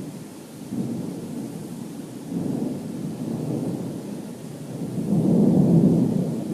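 Thunder rumbling in rolling swells, growing to its loudest about five seconds in, then starting to die away.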